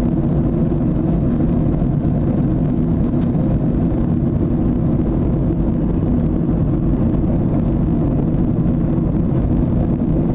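Steady low rumble of a Boeing 737 airliner in flight, the engine and airflow noise as heard inside the cabin.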